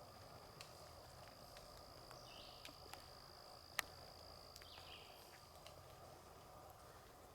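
Quiet woodland sound: a faint, steady high-pitched insect trill, with scattered soft clicks of footsteps on dry leaves and a sharper snap about halfway through. Two short, faint bird calls come in between.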